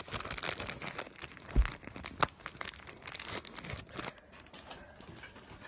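Rustling and crinkling handling noise with scattered clicks, and two louder knocks about one and a half and two seconds in.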